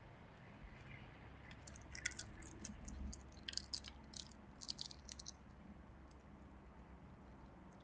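Peanut shells cracking as an animal chews them: a quick, irregular run of faint sharp cracks and clicks lasting about four seconds, starting a second and a half in.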